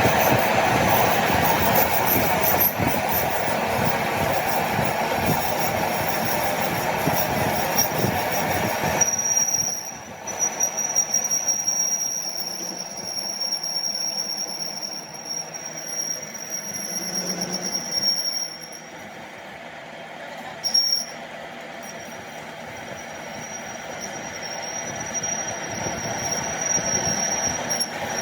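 Metal being worked on a workshop machine. A harsh, rattling grinding noise runs for about nine seconds, then gives way to a steady high-pitched metal-on-metal squeal that breaks off briefly near the middle and carries on.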